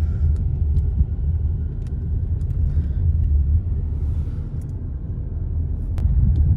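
Low, steady rumble of a road vehicle's engine.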